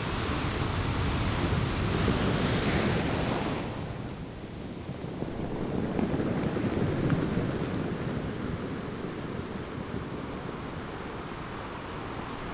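Big ocean waves breaking: a loud crash with spray hissing for the first three or four seconds, then a low, steady surf rumble that swells once more midway.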